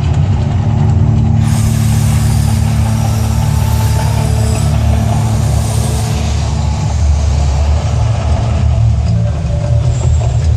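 Deep, loud rumble of the Mirage volcano show's effects, with a hissing rush laid over it from about a second and a half in until about six seconds in.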